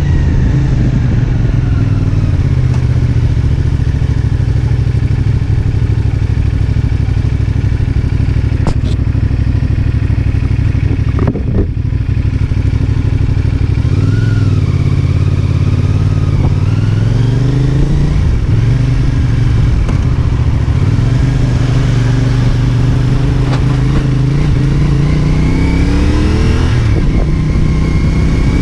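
CFMOTO 450SR S parallel-twin motorcycle engine under way, its revs rising and falling through the gears. Near the end a long climb in pitch ends in a sudden drop at a gear change.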